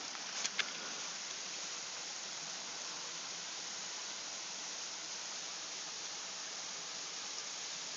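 Steady rushing of a waterfall, with two faint knocks about half a second in.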